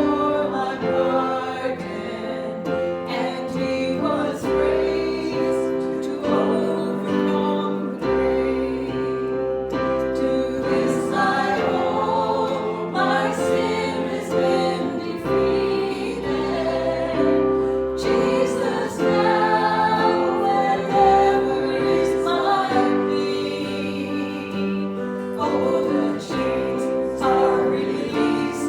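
Congregation singing a hymn with instrumental accompaniment, the voices holding long notes over sustained chords.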